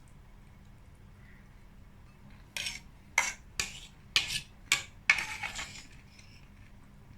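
A fork scraping and clinking against a salad bowl, six short strokes in a little over three seconds; the last stroke is the longest.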